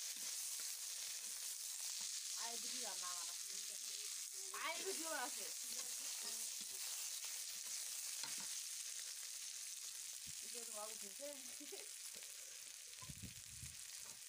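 Green chilies frying in hot oil in an iron karahi: a steady sizzle, with a metal spatula scraping and stirring now and then. The sizzle eases a little toward the end.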